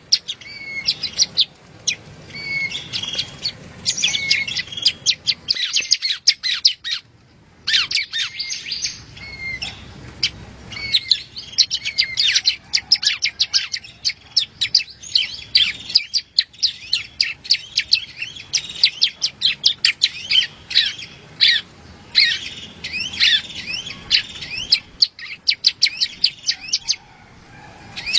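Prenjak rowo (yellow-bellied prinia) singing: a rapid, continuous run of sharp, high chirps and quick falling notes, pausing briefly twice.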